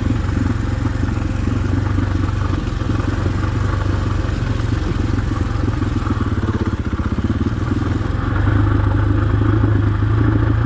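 Husqvarna dirt bike engine running steadily while riding, getting louder about eight seconds in as it picks up.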